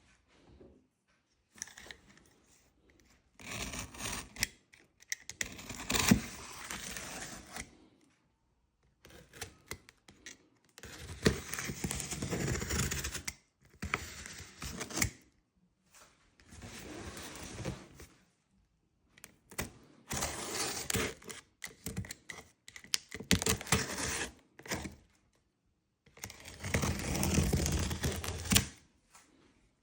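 Intermittent handling noises in a small room: rustling, scraping and clicks in bursts of one to three seconds, with short quiet gaps between them.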